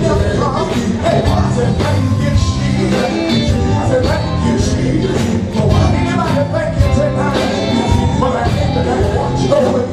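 Gospel band playing with singing over a steady drum beat and bass.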